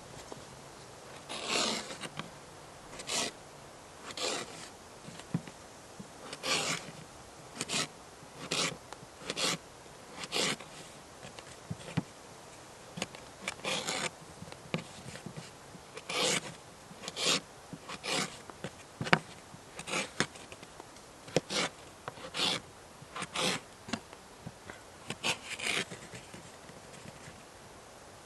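Repeated short rasping scrapes, about one every second or so at an uneven pace, each stroke lasting under half a second.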